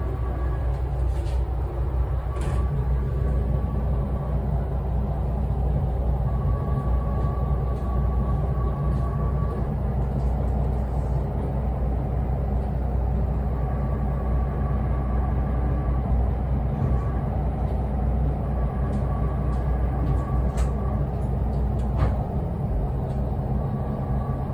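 Diesel railcar running along the track, a steady low engine hum and wheel rumble with a few light clicks from the wheels over the rail, and a faint higher whine that comes and goes.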